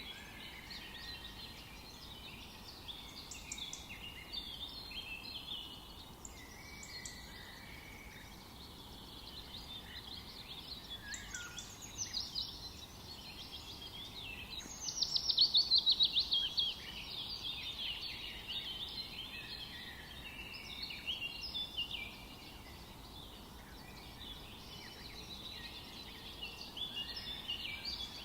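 Forest ambience of several songbirds singing and chirping over a steady low background hiss, with one loud rapid trill of quick falling notes about halfway through.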